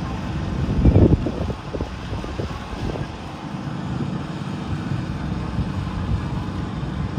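Garden tractor engine running steadily under load, with a louder surge about a second in.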